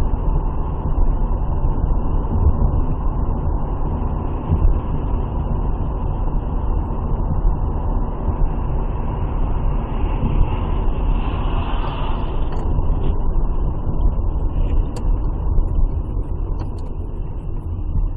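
Steady low rumble of a car driving, road and engine noise heard inside the cabin, with a louder hiss swelling and fading about ten to thirteen seconds in.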